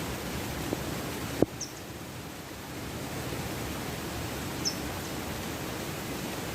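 Steady rushing hiss of heavy rain and running water. A single sharp click comes about a second and a half in, and there are two brief high chirps.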